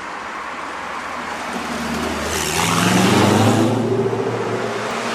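Supercar engine accelerating in a tunnel: the engine note climbs in pitch and grows louder, peaking about three seconds in, then easing slightly.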